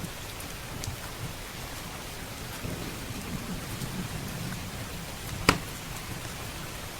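Steady rain hissing, with a low rumble of thunder through the middle. A wood fire crackles with scattered pops, and one sharp pop about five and a half seconds in is the loudest sound.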